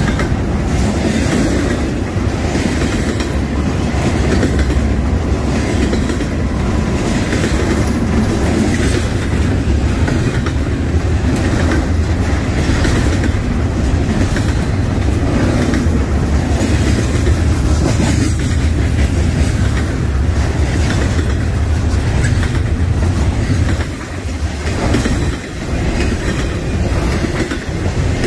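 Freight train cars rolling past, the wheels clicking over the rail joints in a steady rhythm over a heavy low rumble. The sound dips briefly near the end.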